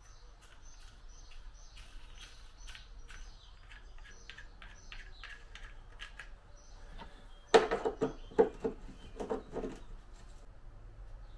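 A small bird chirping over and over in short, high chirps, two or three a second. About seven and a half seconds in, a quick run of loud knocks and clunks as hands work inside the jetski's engine bay.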